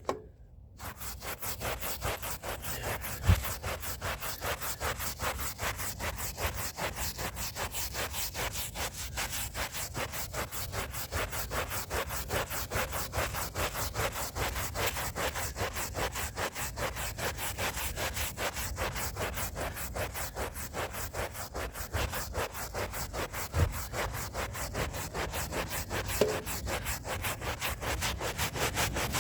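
Stiff hand brush scrubbing a rug's pile in rapid, even back-and-forth strokes, with an occasional low knock.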